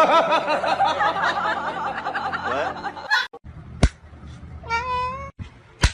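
People laughing for about three seconds, cut off abruptly. Then a sharp click and a short wavering high call, followed by another click.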